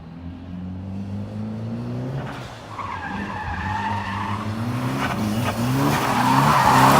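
Drift car engine revving in repeated rising pulls, with tyres squealing about three seconds in and tyre noise growing louder near the end as the car slides closer.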